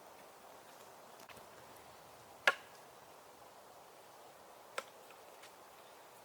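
A few sharp chopping strikes at uneven intervals: one loud blow about two and a half seconds in and a lighter one near five seconds, with a couple of faint taps between, over a quiet hiss.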